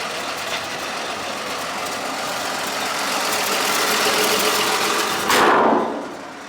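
1955 Chevrolet pickup's 235 inline-six engine idling smoothly, growing a little louder toward the end. About five seconds in, a brief loud rushing noise cuts across it, and after it everything is quieter.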